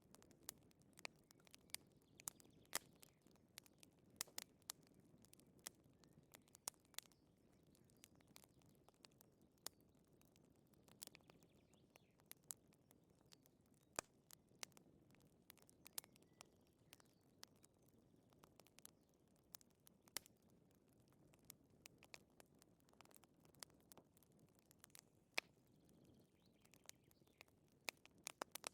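Wood fire crackling in a fireplace: irregular sharp pops and snaps over a soft, low hiss of flame.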